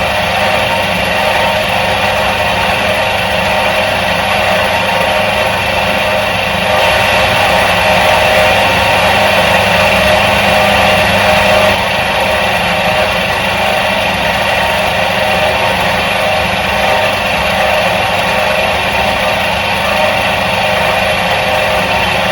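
Electric motor of a 1977 Soviet washing machine running steadily with an even hum and whir, a little louder for a few seconds about a third of the way in.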